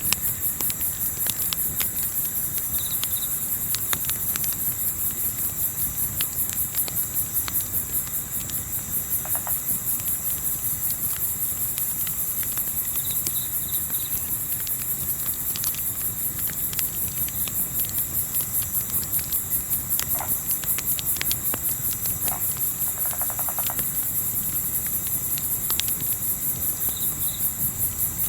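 Crickets chirping in a steady, rapid high-pitched pulse, with scattered sharp crackles from a campfire and a low wind rumble underneath. A few brief high peeps are heard now and then.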